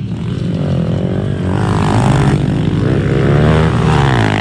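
Pit bike engine revving, its pitch rising and falling as the throttle is opened and eased off.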